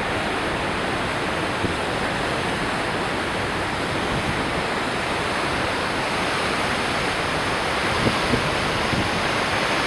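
Goðafoss waterfall: a steady rush of falling water.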